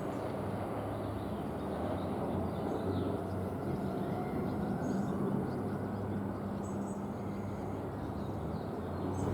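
Passenger train running through the station: a steady rumble with a low hum, unchanging throughout.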